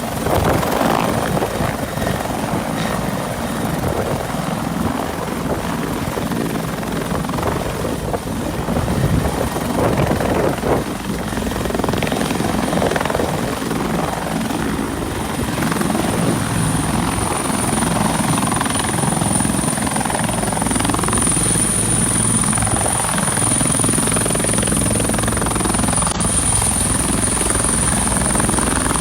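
Bell UH-1 Huey helicopter's rotor and turbine engine running at a steady loud level during takeoff. A thin high whine grows stronger in the second half.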